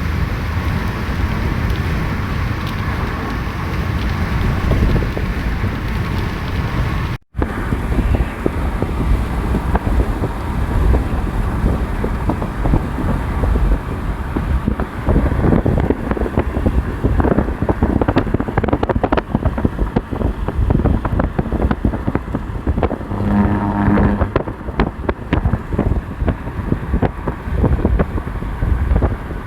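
Steady wind and road noise of a car driving, with a sudden brief dropout about a quarter of the way in. In the second half there are many small sharp pops, and a short low tone sounds about three-quarters of the way through.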